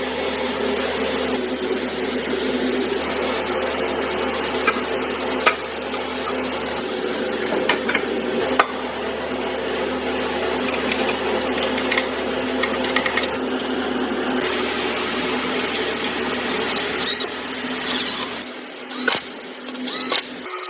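Assembly-line machinery running with a steady hum, with scattered sharp clicks and taps of tools on metal.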